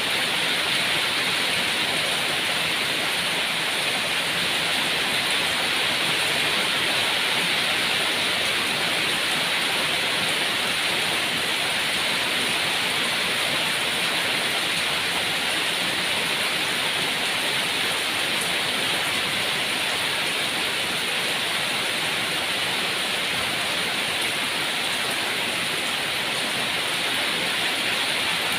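Steady rain falling, a constant hiss with no change in level.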